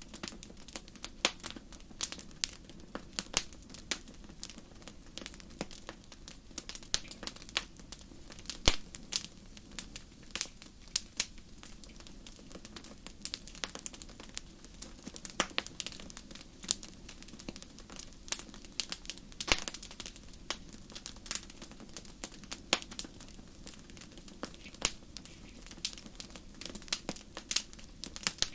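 Wood campfire crackling, with irregular sharp pops and snaps several times a second over a low steady hiss of the fire.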